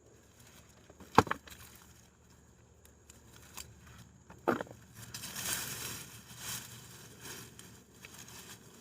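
Rustling and crackling of sweet potato vines, leaves and soil being handled during a hand harvest. A sharp click comes about a second in and another short snap about halfway; the rustling gets busier in the second half.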